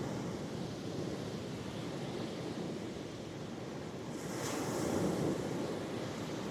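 Sea waves washing onto the shore in a steady rushing surf. About two-thirds of the way in, one wave swells louder and breaks with a brief hiss.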